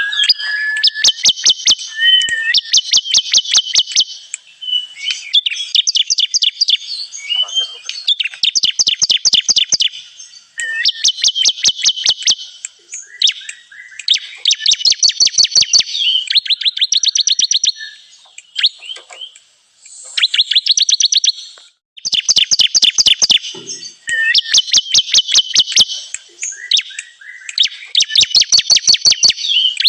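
Bar-winged prinia (ciblek kristal) song, the kind played as a bird lure: loud, fast trills of sharp high notes in phrases of about one to two seconds, with short pauses between them.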